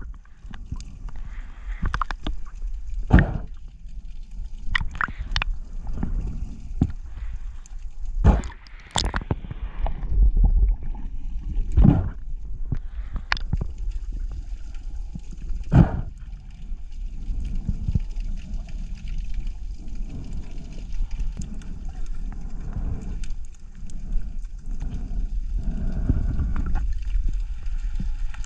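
Underwater sound picked up through an action camera's housing: a steady low water rumble with about a dozen sharp clicks and knocks scattered through it.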